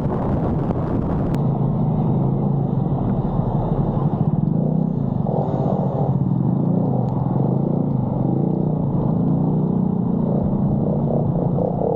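Steady low vehicle rumble with no breaks.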